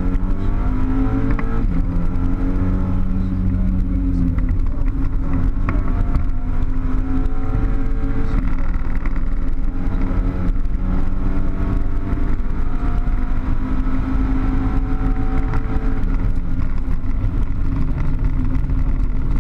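Car engine heard from inside the cabin while driven hard on a race circuit, its pitch climbing and falling back again and again as it accelerates and shifts or lifts off, over steady road and wind noise.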